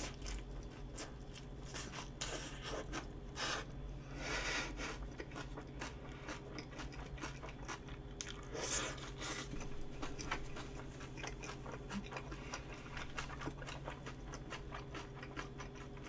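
A person chewing a mouthful of rolled-up salad flatbread pizza close to the microphone: wet crunching with many small mouth clicks, loudest from about two to five seconds in and again about nine seconds in.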